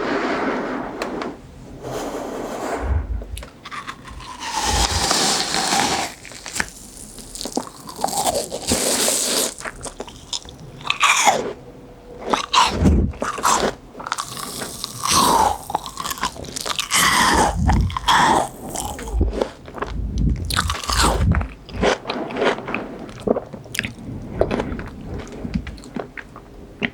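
Close-miked biting and chewing of crunchy fresh fruit: repeated crisp crunches and wet chewing, in uneven bursts.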